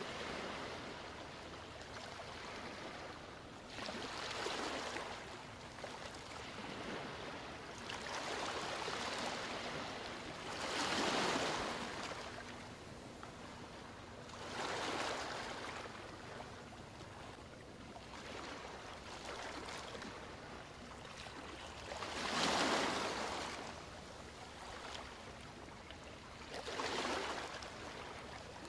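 Ocean surf washing onto a beach: a steady hiss that swells into a breaking wave every few seconds, about eight surges, the loudest about a third of the way in and again past the middle.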